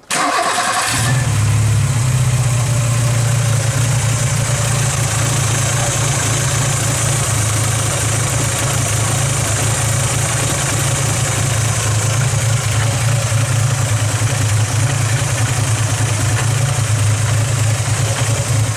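VW Polo Mk2F 1.3 L carburettor four-cylinder petrol engine cranking briefly and catching about a second in, then idling steadily. The owners say this idle hunts, which they suspect comes from a vacuum leak, perhaps a split rubber carburettor flange.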